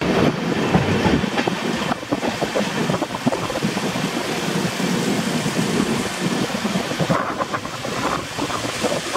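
Duronto Express passenger coach running along the track, heard from its open doorway: a steady rumble of wheels on the rails with a continual irregular clatter.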